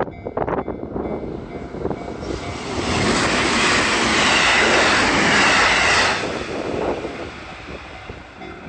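JR Kyushu 783 series five-car electric train passing close by at speed. Its wheel-on-rail rumble and rush swell over about two seconds to a loud peak that lasts about three seconds, then fade as it recedes.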